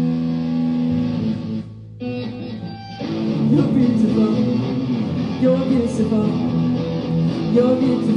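Live band playing, led by guitar: a held chord rings out and dies away about a second and a half in, a few plucked guitar notes follow, and the full band comes back in about three seconds in.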